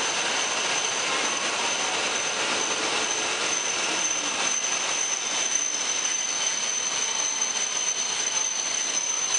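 E7 series Shinkansen train rolling slowly past along the platform as it pulls in, a steady rushing noise of wheels and running gear. A thin high steady tone sounds through it.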